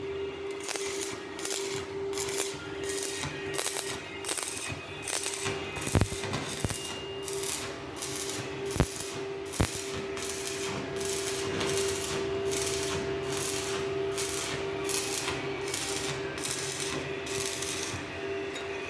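A hand tool rasping on metal in steady strokes, about two a second, over a constant hum, with a few sharp clicks in the middle.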